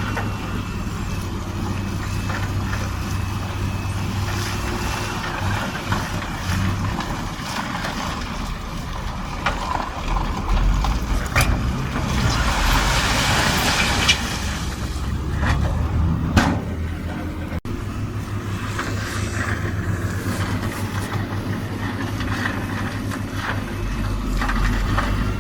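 Diesel engine of heavy earthmoving machinery running steadily. About halfway through there is a rushing, hiss-like noise lasting about two seconds, with a few sharp knocks around it.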